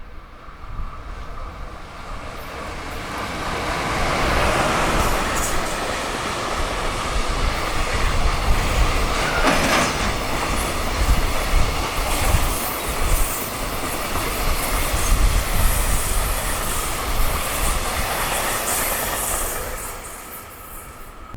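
Freight train hauled by an EF210 electric locomotive passing at high speed, a steady rush of wheels on rail with rapid clickety-clack. It builds over the first few seconds and fades near the end as the wagons go by.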